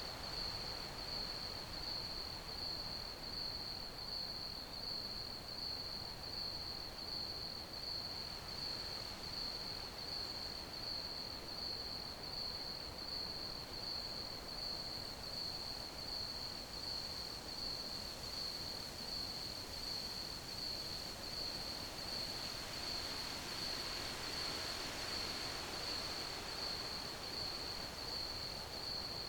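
Crickets chirping in an unbroken chorus: one steady, evenly pulsing high trill over a soft hiss.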